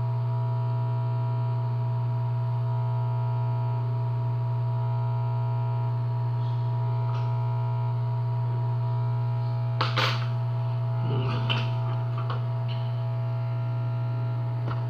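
Hot-air rework station running with a steady hum. A few short clicks about ten seconds in.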